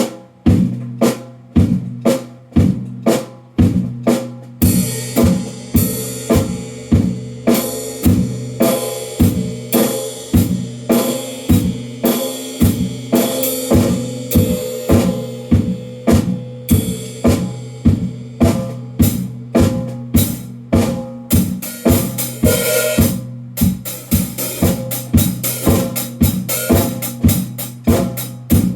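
Drum kit played solo in a steady beat of about two strokes a second, the drums ringing on after each hit. A cymbal wash joins after about five seconds, and the strokes come faster near the end.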